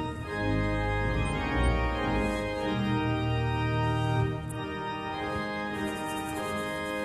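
Church organ playing slow, sustained chords, the harmony changing a couple of times.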